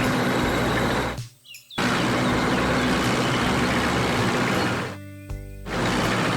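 Heavy truck engine sound effect running loudly, cut off abruptly twice for about half a second each.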